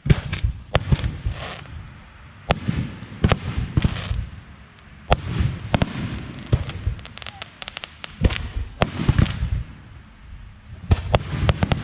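Aerial fireworks going off: sharp bangs in quick clusters every second or two, each trailed by a fading rumble.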